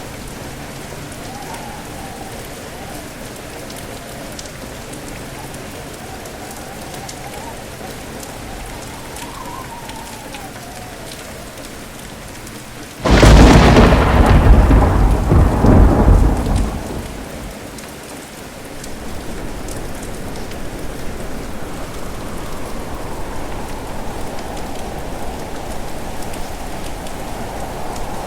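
Steady heavy rain with wind. About halfway through, a sudden loud thunderclap crashes in and rumbles for about four seconds before fading back into the rain.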